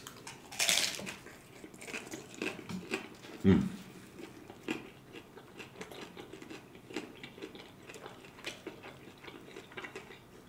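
A crunchy bite into a hard corn taco shell about a second in, followed by chewing with many small crunches and wet mouth sounds.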